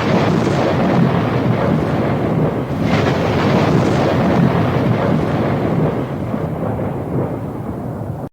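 Thunder rumbling through a rainstorm, with two louder crashes, one near the start and one about three seconds in, before it eases off.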